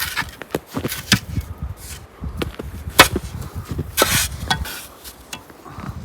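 Irregular sharp knocks and clatter of hard objects being handled, the loudest knock about three seconds in, followed by a brief scraping rush about a second later.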